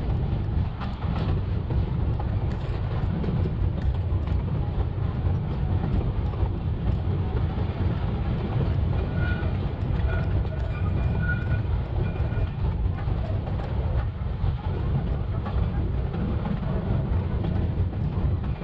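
Narrow-gauge railway car rolling along the track: a steady low rumble of wheels on rail, heard sped up to double speed.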